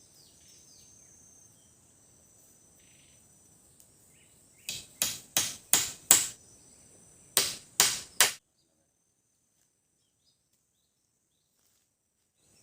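Machete (parang) chopping wood: five quick sharp strikes, a pause of about a second, then three more, over a steady high buzz of insects. The sound cuts off abruptly after the last strike.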